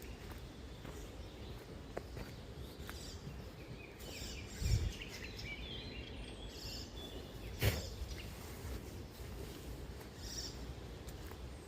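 Forest ambience: scattered bird calls over a steady low rumble, with a dull thump about five seconds in and a sharp knock near eight seconds.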